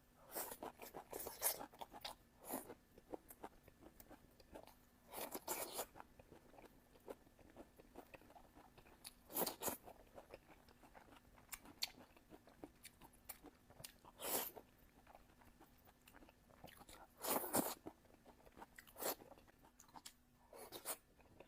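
Close-miked chewing and biting of food: irregular crunches and mouth noises, with the loudest bites about halfway through and near the end.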